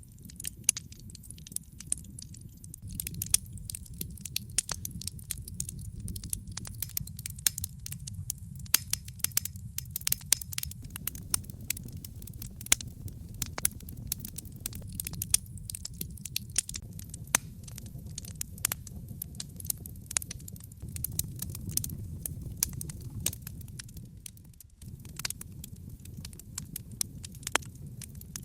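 Wood fire burning in a fireplace: logs crackling with frequent sharp pops, several a second, over a low steady rumble.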